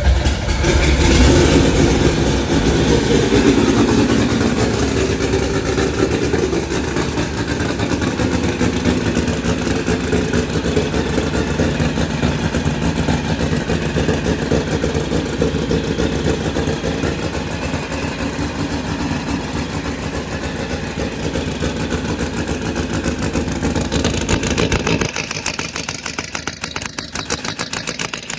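Turbocharged 2180cc air-cooled VW flat-four engine running at idle after starting. About 25 seconds in, its deep low rumble drops away and a quieter, rougher sound carries on.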